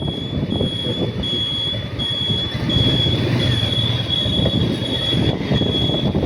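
Road noise while riding a motorcycle: a low rumble of engine and wind, with a thin high-pitched whine that keeps breaking off and coming back about every half second.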